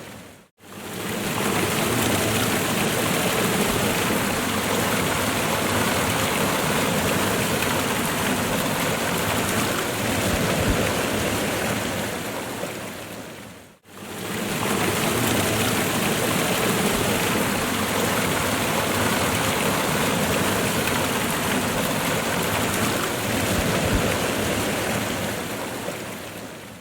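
Waterfall: a steady, loud rush of falling water. It fades out to silence and back in twice, just after the start and about halfway through.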